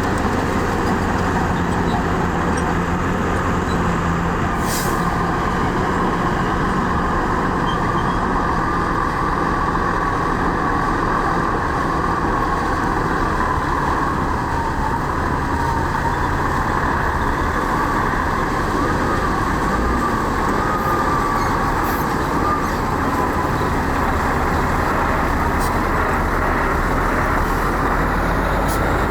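Heavy diesel earthmoving machinery running steadily under load, with a wavering high whine over the engine noise.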